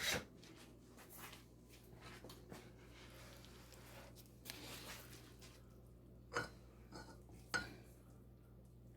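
Kitchen dishes and utensils knocking and clinking during food preparation: a few separate sharp knocks, the loudest about six and a half and seven and a half seconds in, with a short rustle between.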